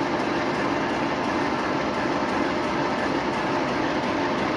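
TEP70 locomotive's 16-cylinder V diesel engine running steadily, a continuous even drone with no change in speed.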